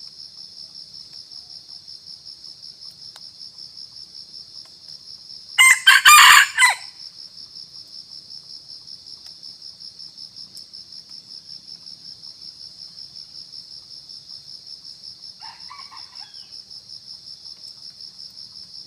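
Red junglefowl crowing once, a short loud crow about six seconds in, over a steady pulsing insect chorus. A fainter brief call comes about sixteen seconds in.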